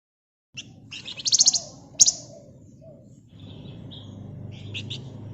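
Javan grey-throated white-eye (flamboyan) calling. After a moment of silence comes a loud, fast trill of rapid high notes, then a single sharp note, then a few softer chirps.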